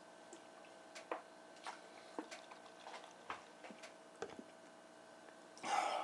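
Quiet room with a faint steady hum and scattered small irregular clicks, then a short breathy rustle near the end.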